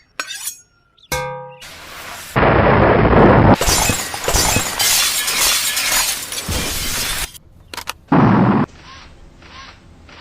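Dubbed-in action sound effects: a short pitched effect, then a loud explosion-like crash with breaking debris that dies away over about five seconds, and a brief loud burst near the end.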